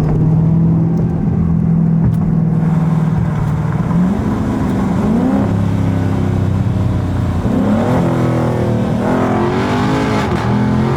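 Dodge Scat Pack's 392 Hemi V8 running loud. It holds a steady note for about four seconds, then revs up, and is blipped several more times near the end, its pitch rising and falling.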